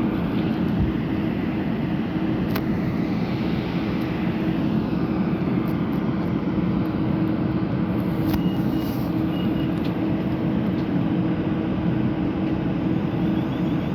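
Electric train at a station platform: a steady running rumble with a constant low hum, and a few faint clicks.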